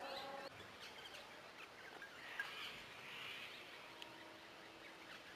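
Faint outdoor ambience with scattered small bird chirps.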